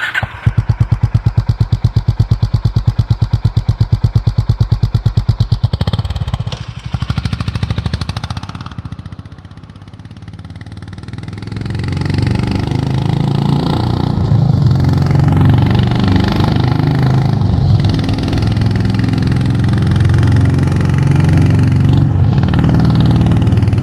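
Honda H'ness CB350's 348cc air-cooled single-cylinder engine and exhaust: an even idle beat of about eight pulses a second, then a fade, then a louder, more continuous run from about eleven seconds in.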